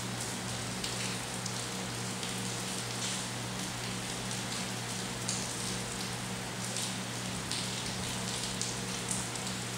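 Steady rain falling, with the hits of single drops heard sharply above the even hiss of the downpour.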